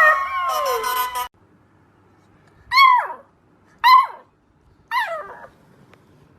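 Several puppies whining and howling together, cut off abruptly about a second in; then a single puppy gives three short high-pitched cries about a second apart, each dropping in pitch at the end.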